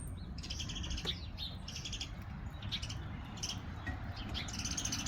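Small birds chirping in short, rapid trilled phrases, about five of them, over a steady low rumble of wind.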